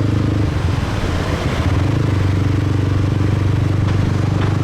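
Motorbike engine running while riding through city traffic, a steady low hum whose pitch wavers and dips briefly about a second in before settling again.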